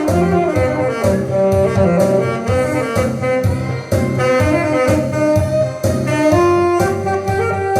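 Alto saxophone playing a melody over accompaniment with a steady beat, settling into a long held note near the end.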